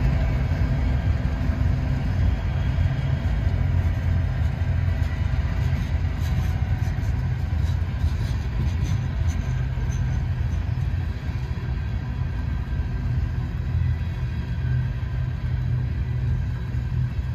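Freight train of potash covered hopper cars rolling past: a steady low rumble of wheels on rail, with a few faint clicks in the middle.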